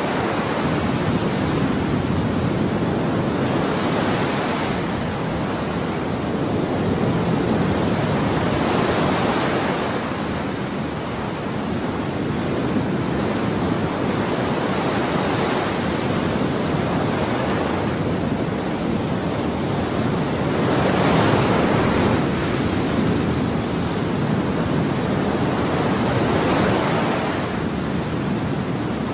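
Ocean waves breaking and washing on a shore, a steady rushing surf with swells surging every few seconds.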